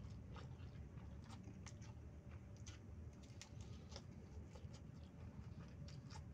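Faint chewing of a fried snack: irregular small mouth clicks and crackles, several a second, over a steady low hum.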